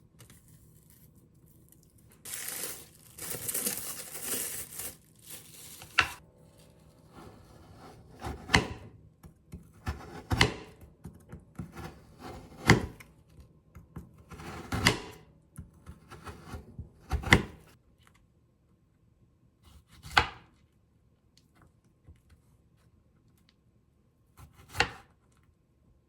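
A rustling, tearing sound lasting a couple of seconds, then a knife cutting down onto a cutting board in single strokes about every two seconds, eight in all.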